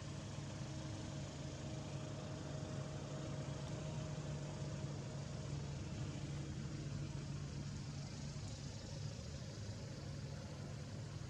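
Steady low engine hum, as of a motor vehicle idling, over a constant background hiss.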